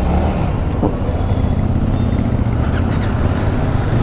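KTM 390 Adventure's single-cylinder engine pulling away from a stop and running at low road speed.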